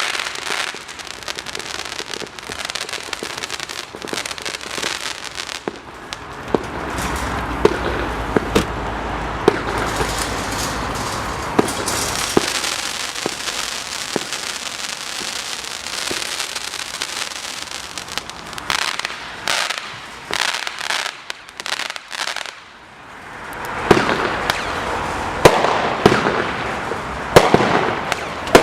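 Comet 'Buffalo' firework battery firing shot after shot, with launch reports and a continuous crackle and hiss. It dips briefly about three-quarters through, then a quick run of loud sharp bangs follows.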